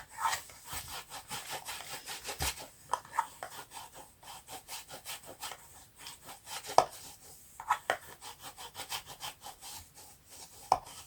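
Rubbing and scraping strokes pressing a freshly glued craft piece down firmly: a quick, irregular series with a few louder scrapes.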